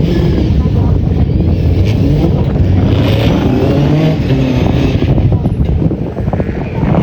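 Rally car engine revving hard, its pitch rising and falling repeatedly.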